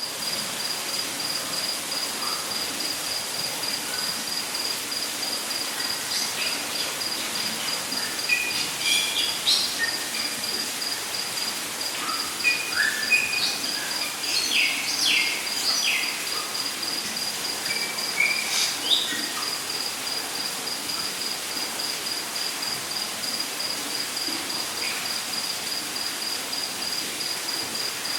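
A cricket chirping in a steady, rapid, high-pitched pulse throughout. Birds call with short, scattered notes through the middle stretch.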